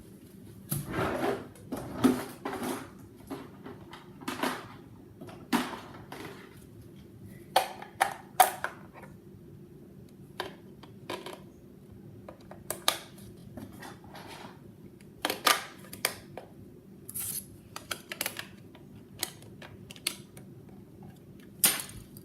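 Irregular plastic clicks and knocks from a WR120 weather radio being handled as its batteries are changed: cells and battery cover going in, buttons pressed. Some clicks come in quick pairs, over a faint steady hum.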